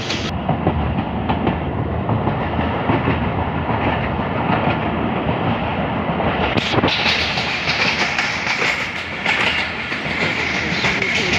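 Passenger train running at speed, heard from inside a moving carriage: a steady rumble of the carriage with wheels clattering over the rails, turning brighter and hissier about two-thirds of the way through.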